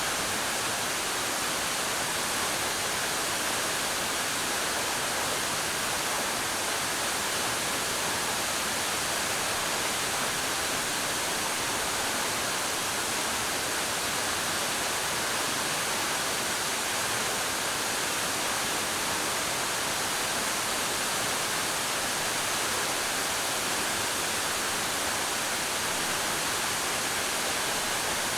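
Suok Falls waterfall pouring steadily: an even, unbroken rush of falling water.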